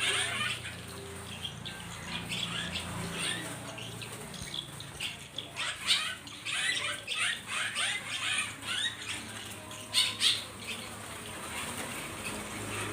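Caged wild-caught birds chirping in quick bunches and fluttering, with a couple of sharper, louder strokes, one about halfway through and one about three-quarters through.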